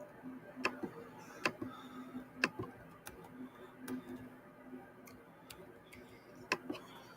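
Sharp clicks at irregular intervals, about eight in all, over a faint steady low hum.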